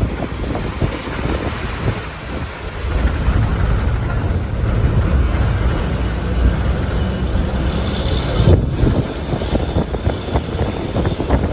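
Wind buffeting the microphone in gusts, over a vehicle running steadily underneath.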